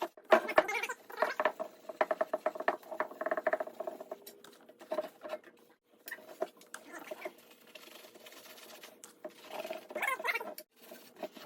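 0000 steel wool scrubbing a soapy, patina-painted motorcycle fuel tank in runs of quick rubbing strokes, with short pauses between runs.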